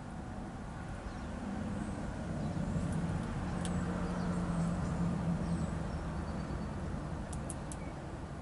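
A distant engine hums as a low, steady rumble that swells through the middle and then fades, as a passing vehicle does. A few faint, short high chirps of small songbirds come over it.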